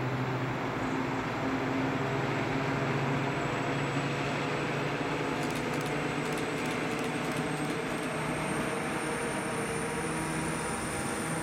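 Fenniarail CZ Loko 774-series diesel locomotive passing at speed with a loaded timber train: a steady engine note over the rumble of wheels on the rails. As the timber wagons roll by, a faint high whine comes in about eight seconds in.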